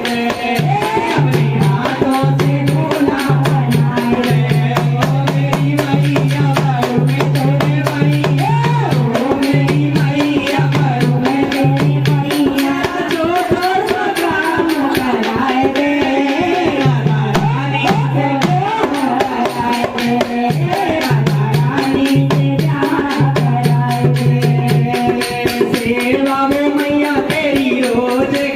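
Hindi devotional bhajan music: dholak drumming with jingling rattle-type percussion keeping a fast, steady beat under a bending melody line.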